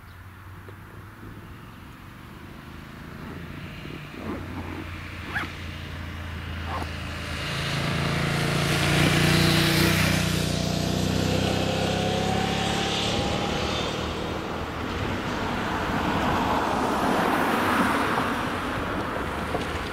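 A motor vehicle's engine approaching and passing close by, building up to its loudest about halfway through and staying loud to the end, with a few sharp clicks as it draws near.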